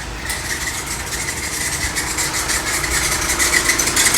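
Volkswagen Amarok diesel engine idling, with a pulsing, higher-pitched noise on top that the mechanic identifies as a faulty alternator.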